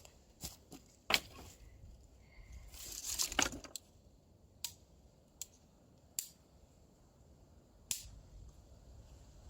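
Dry twigs being broken up for fire kindling: a series of single sharp snaps, with a longer crunching, cracking stretch about three seconds in.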